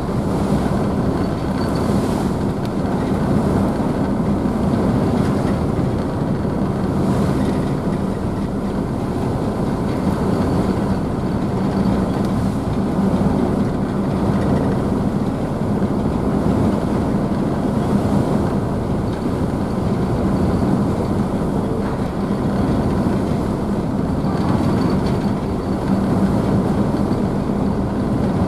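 Car ferry's engines running with a steady low hum under the rushing, splashing noise of the wake and waves.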